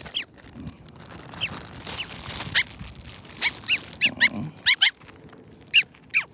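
A bird giving a quick series of short, harsh calls, about a dozen, each dropping in pitch.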